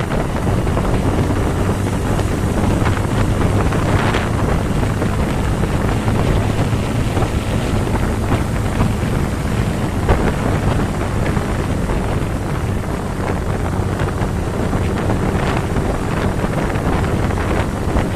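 Wind buffeting the microphone of a moving motorcycle over the steady low drone of its engine. The wind swells about four seconds in and again near the end.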